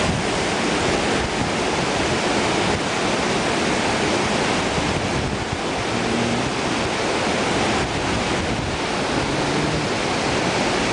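Hurricane storm wind making a steady loud rush, with gusts buffeting the microphone.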